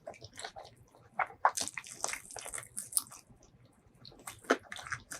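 Close-miked eating sounds: wet chewing and mouth smacks, a string of short clicks, with a denser wet, crackly stretch about two to three seconds in.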